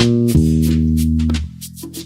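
Electric bass guitar and drum kit playing a soul groove: two low bass notes, the second held for about a second before fading, under evenly spaced cymbal ticks.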